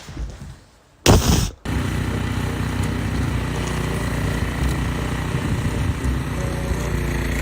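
A short loud blast about a second in, then an engine running steadily at an even speed.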